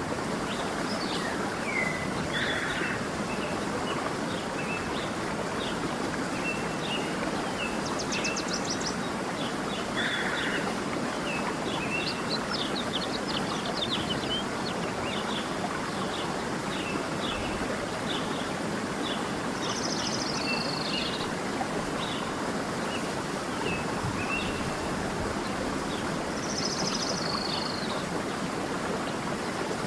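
Steady rush of running water, like a stream, with several birds chirping and trilling over it throughout, including a quick trill about eight seconds in and two short falling calls later on.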